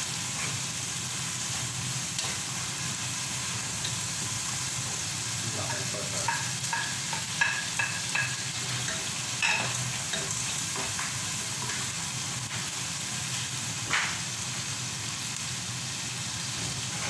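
Sliced onions and whole spices sizzling steadily in hot oil in a pot, stirred with a wooden spatula. A few light clicks and scrapes come between about six and ten seconds in, with one sharper click near the end.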